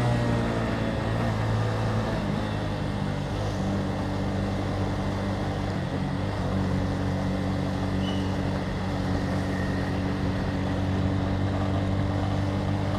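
Motorcycle engine running at a steady, even speed while riding, over a continuous hiss of road and wind noise.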